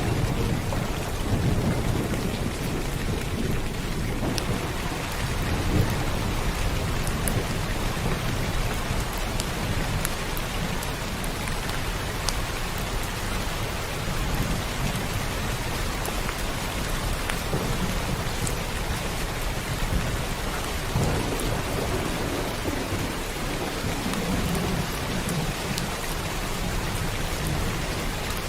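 Steady heavy rain falling on a surface, with scattered drop ticks, and low thunder rumbling underneath, swelling near the start and again toward the end.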